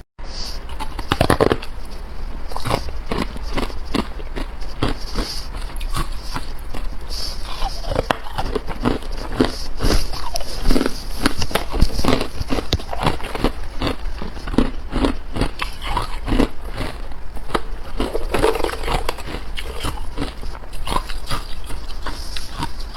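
Close-miked biting and chewing of hard carbonated ice: a dense, irregular run of sharp crunches and cracks.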